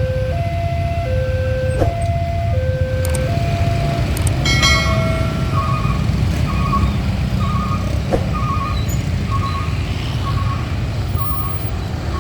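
Railway level-crossing warning alarm sounding two alternating tones, each held about three-quarters of a second, over a steady low rumble. The alarm stops about three seconds in; a short horn-like blast follows, then a higher, quicker beep that repeats about every half second.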